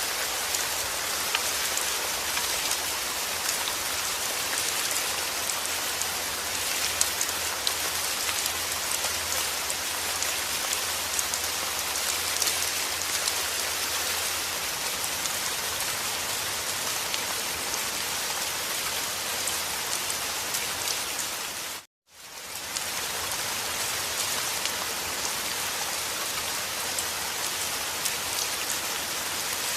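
Rain falling steadily, with individual drops ticking sharply now and then. About two-thirds of the way through, the rain fades out to silence for a moment and fades straight back in.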